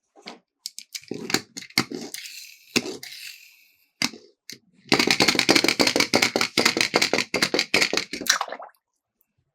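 Miniature toy cars rattling and clattering down a slope: scattered clicks and knocks at first, then a dense, fast rattle of many small impacts that stops short of the end.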